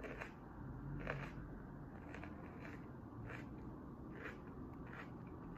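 Faint crunching of raw orange bell pepper being chewed, a little over one crunch a second.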